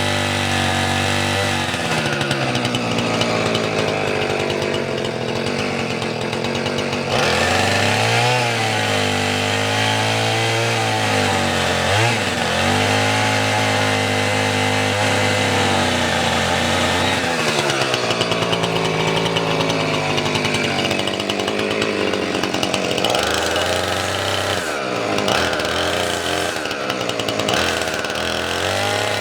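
Chainsaw running at high revs and cutting firewood. Its engine pitch rises and sags again and again as the chain bites into the wood and frees up.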